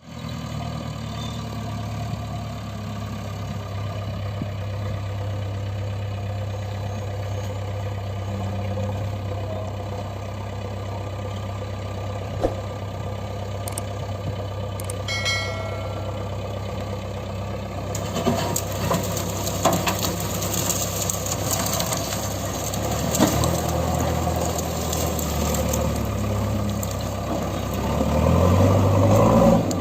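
Heavy diesel engine running steadily at low revs. From about 18 seconds in it works harder with added rattling, and it revs up loudly just before the end.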